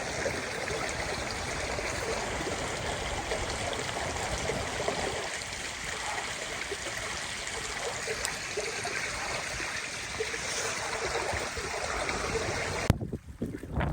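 Steady rush of running water, breaking off suddenly with a click near the end.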